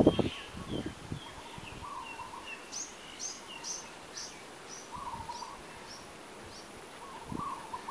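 Birds calling in a garden: one gives a run of about eight short, high chirps, roughly two a second and fading. Another repeats a lower, wavering call three times. A brief low rumble on the microphone comes at the very start.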